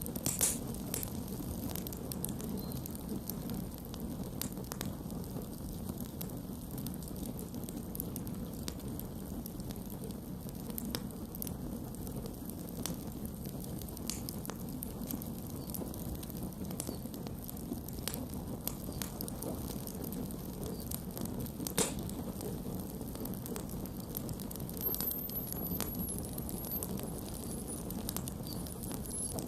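Campfire burning: the steady low sound of the flames with scattered small crackles and pops throughout, a sharper pop just after the start and another about 22 seconds in.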